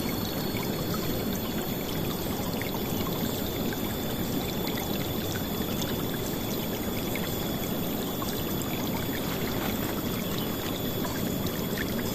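River water flowing and splashing in a steady, full rush, with small scattered splashes over it.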